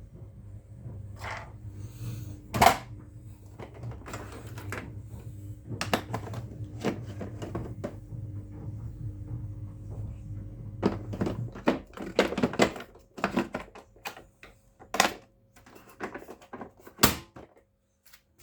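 Clicks, knocks and rattles of plastic parts being handled, with several sharp snaps, typical of parts of an LG VK89189HWV vacuum cleaner being fitted or taken off. A low steady hum sounds under the first part and stops about two-thirds of the way through.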